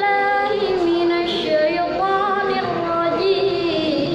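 A young student's solo voice chanting Qur'anic recitation in long held notes that turn and slide slowly between pitches.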